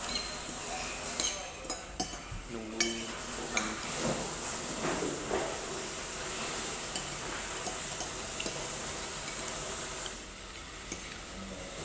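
Utensils and dishes clinking a few times on the table in the first few seconds, over a steady hiss.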